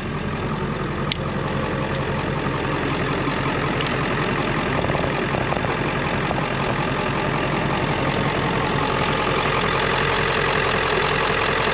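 A vehicle engine idling steadily while it supplies a jump charge to a tractor's dead batteries, with a single sharp click about a second in.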